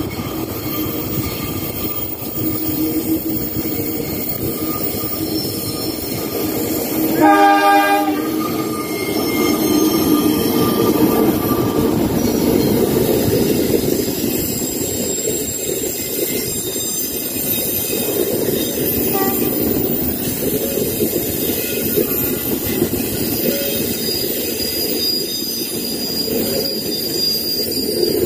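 A diesel locomotive's horn sounds once, briefly, about seven seconds in. Its passenger train then rumbles steadily past, carriages rolling over the rails.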